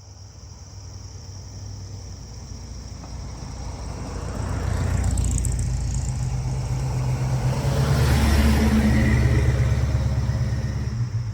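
Car engine rumbling as it rolls slowly past, growing louder over several seconds, loudest near the end, then falling away.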